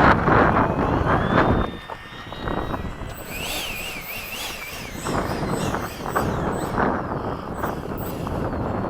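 Wind gusting on the microphone, with the high whine of an electric ducted-fan RC jet that rises in pitch about half a second in and then holds steady. Between about three and five seconds in, a high tone wavers up and down several times.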